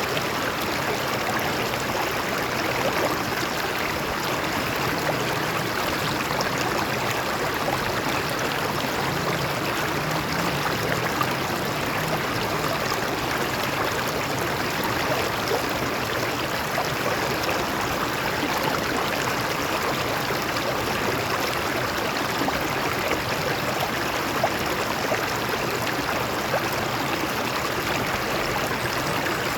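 Stream water flowing and splashing over rocks, a steady unbroken rush.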